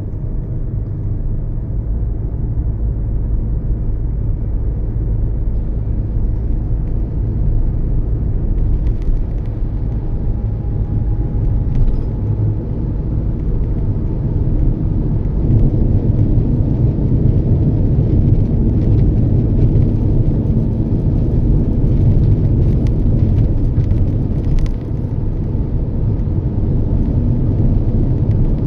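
Toyota Yaris driving along a road: a steady low rumble of tyres and engine that slowly grows louder as it gathers speed.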